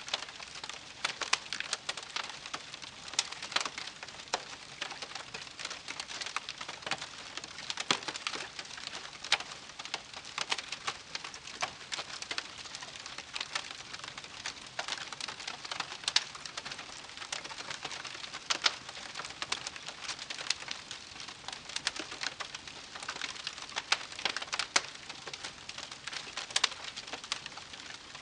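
Wood fire crackling steadily, with many irregular sharp pops and snaps over a soft hiss.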